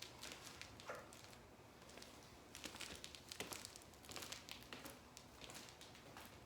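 Near silence with faint, irregular rustling and clicking.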